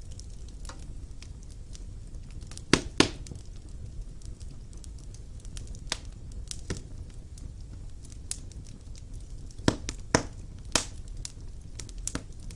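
Wood fire burning in a stone fireplace: a low steady rumble of the flames with irregular sharp crackles and pops, the loudest coming in quick pairs about three seconds in and again near ten seconds.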